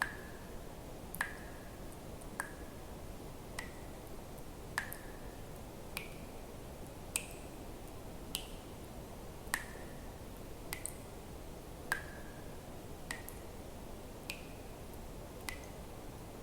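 Water drops dripping at a steady pace, about one every 1.2 seconds. Each drop is a sharp click with a brief ringing tone that changes pitch from drop to drop, over a faint steady hiss.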